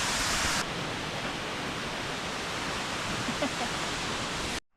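Steady rushing roar of a large waterfall at full spring-runoff flow. The sound thins a little about half a second in and cuts off suddenly near the end.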